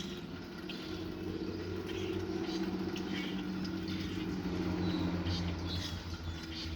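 Small birds chirping, short high chirps scattered throughout, over a light patter of rain. A steady low hum runs underneath.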